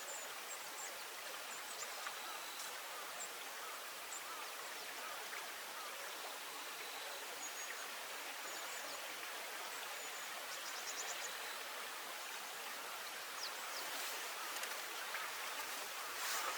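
Steady hiss of flowing river water, with faint high chirps and a brief rapid trill near the middle, and a few short sharp ticks near the end.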